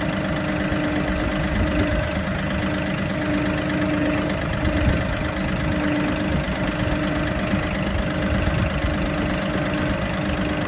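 John Deere tractor's diesel engine idling steadily, warming up after a cold start before being put to work.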